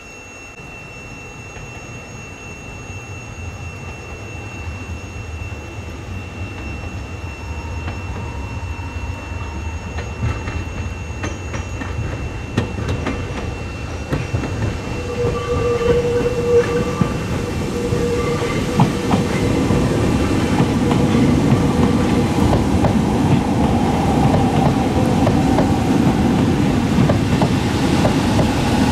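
Kobe Electric Railway 3000-series electric train approaching over the station pointwork and passing close by, growing steadily louder. From about ten seconds in, the wheels click over the rail joints and switch crossings, and the wheel flanges give short squeals.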